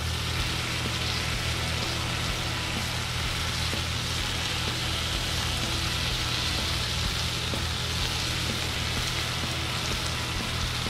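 Butter-fried biscuits and bacon sizzling steadily on a hot discada (plow-disc wok) as raw bacon strips are laid onto the disc, with a steady low hum underneath.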